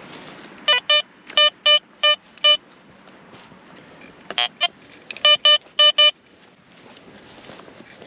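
Garrett Vortex VX9 metal detector sounding repeated short target beeps as the coil is swept: a run of about six beeps on one pitch, two beeps of a different tone about four and a half seconds in, then about four more on the first pitch.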